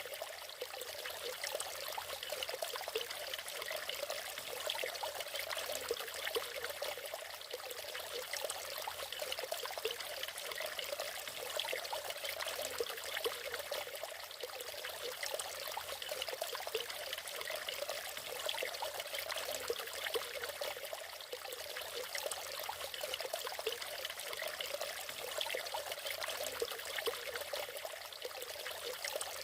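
Natural waterfall: water pouring in a steady, bright rush with almost no low rumble.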